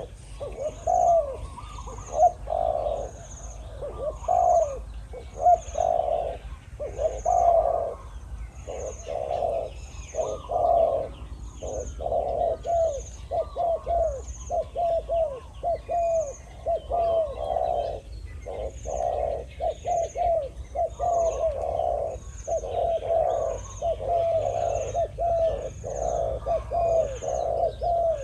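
Spotted doves cooing over and over in overlapping phrases, a decoy dove and a wild dove answering each other almost without pause. A faint, high, short chirp repeats about once a second behind them.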